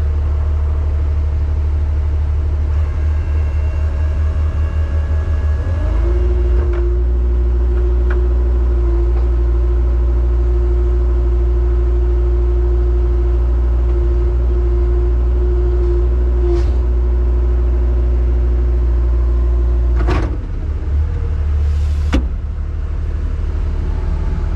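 Rollback tow truck's engine running with its hydraulic winch pulling in: about six seconds in a steady whine rises and holds while the engine note gets heavier, then cuts off near twenty seconds, followed by two short knocks.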